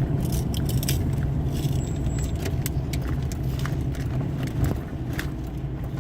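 Inside a car's cabin while driving slowly: a steady low engine and road rumble with frequent light, sharp rattling clicks.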